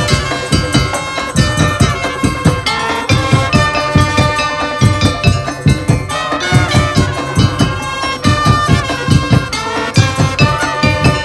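Madurese tong-tong ensemble playing: fast, dense drum and wood-block beats under a ringing, bell-like melody.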